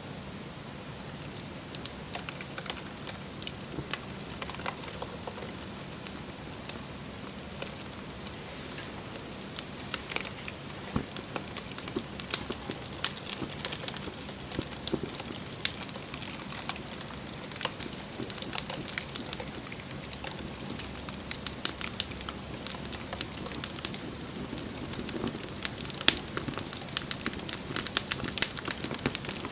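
Wood fire crackling: sharp pops and snaps over a steady hiss, starting a couple of seconds in and growing more frequent toward the end.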